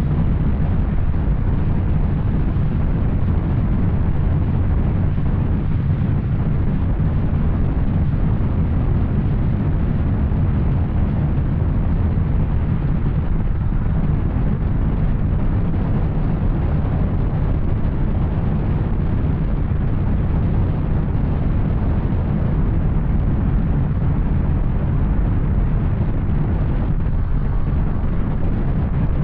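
Yamaha Tracer 900's three-cylinder engine running through an Arrow aftermarket exhaust, a loud, steady deep drone with no gear changes or rev swings.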